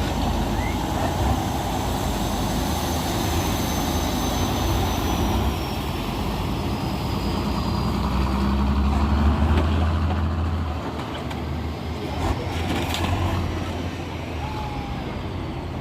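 Tatra truck-trial truck's engine running hard, swelling loudest about eight to ten seconds in, with a faint high whistle slowly falling in pitch.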